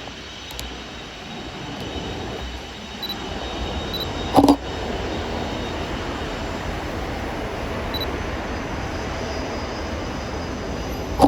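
Steady rushing noise of a jet airliner's engines running at the airport, growing a little louder after about four seconds. Two short, loud knocks stand out, one about four seconds in and one at the very end.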